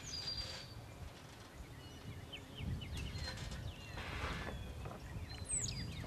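Songbirds chirping, short scattered calls with a high thin whistle sliding downward near the end, over a steady low rumble.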